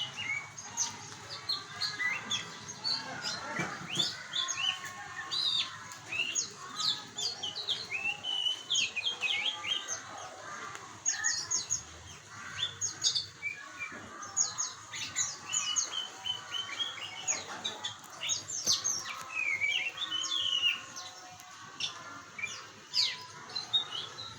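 An oriental magpie-robin (kacer) and a white-eye (pleci) singing back and forth in a dense, unbroken stream of short whistled notes, chirps and quick trills.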